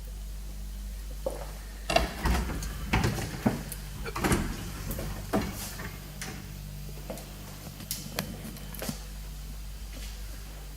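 A run of irregular knocks and clicks, densest in the first half, over a steady low hum.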